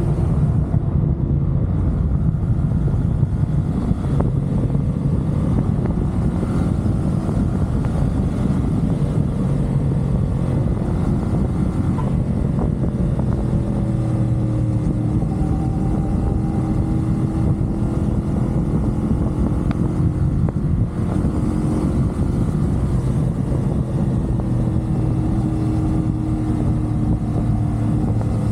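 CFMoto 450SR parallel-twin engine running steadily at cruising speed on an expressway, its pitch drifting slowly up and down, over a constant rush of road and wind noise.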